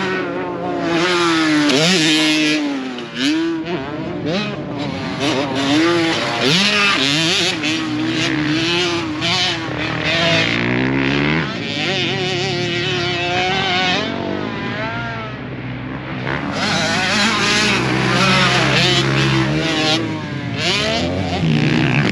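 Motocross dirt bike engines running hard on a track, the pitch climbing and dropping over and over with throttle and gear changes; at times more than one bike is heard at once.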